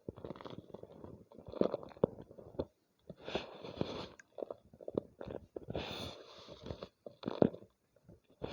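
A homemade gym chalk ball crunching and crumbling as it is crushed by hand, in about five separate squeezes, each a short bout of crackling with sharp snaps.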